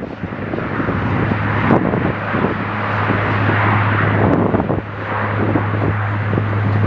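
Wind gusting hard against the microphone in a snowstorm, with a steady low engine hum underneath from about a second in.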